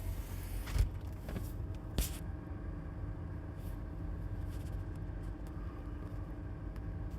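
Steady low hum of a car idling, heard from inside the closed cabin, with two short knocks about one and two seconds in.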